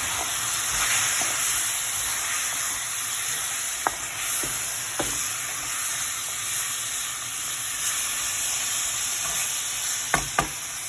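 Chicken pieces and onions sizzling in hot oil in a pan as they are stirred, with a few sharp knocks of the spoon against the pan, two of them close together near the end.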